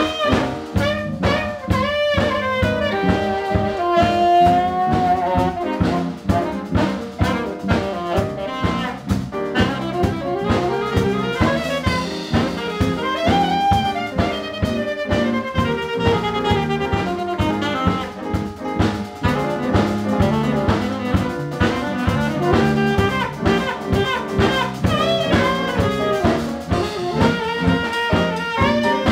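Jazz quartet playing live: a saxophone carries the melody over piano, bass and drum kit, with a steady beat.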